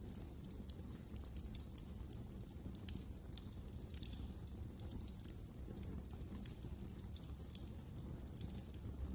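Wood fire crackling: many small, sharp pops at irregular intervals over a low steady rumble of burning.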